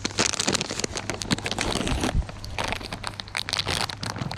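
Plastic bag of cashews crinkling as it is handled, in quick irregular crackles that come in shorter bursts after about two seconds, over a steady low hum.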